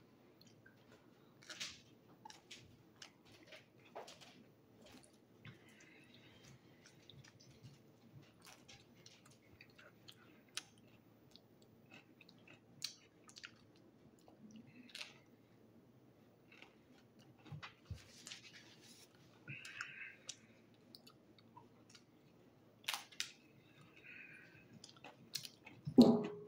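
A person biting and chewing a slice of pizza, with soft, scattered mouth clicks and smacks. A single louder knock comes near the end.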